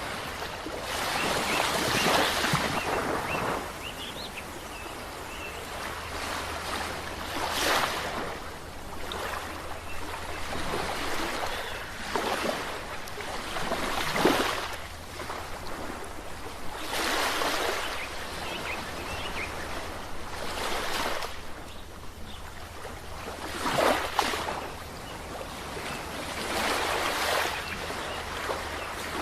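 Ocean waves breaking and washing up a shore, a fresh surge every few seconds.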